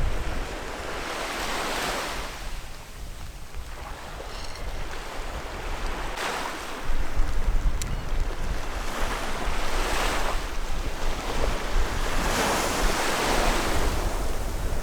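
Sea waves breaking and washing in on the shore, swelling and falling back every few seconds, with wind buffeting the microphone as a steady low rumble.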